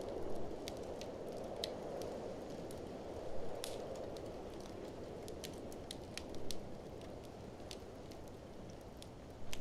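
Wood fire crackling in a fireplace with scattered sharp pops, a few louder ones spread through, over a steady rushing of blizzard wind.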